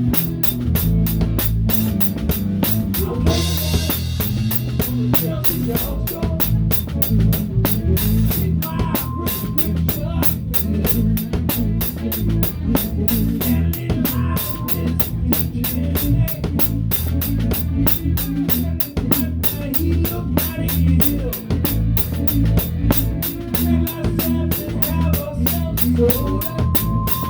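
Live rock band playing an instrumental passage, heard up close from the drum kit: a Pearl drum kit with a towel-damped snare keeps a steady beat over bass and guitar. A cymbal crash rings out about three seconds in.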